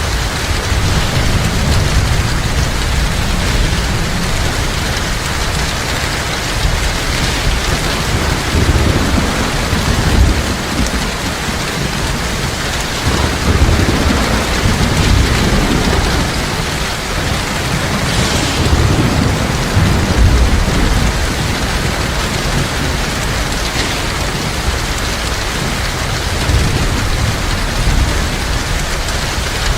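Heavy rain falling steadily, with low thunder rumbling underneath that swells several times.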